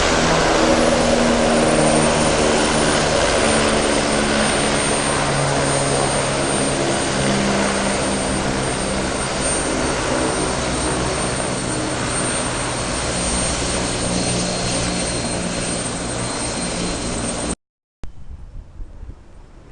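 Aircraft engines running loud and close, a steady high whine over a dense rumble with shifting low tones, slowly fading. About 17 seconds in the sound cuts off abruptly, leaving quieter background noise with a few clicks.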